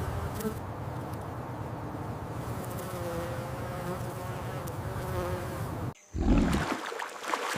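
Bees buzzing steadily for about six seconds, a wavering hum. After a short break, a deep, loud low growl begins: an American alligator bellowing.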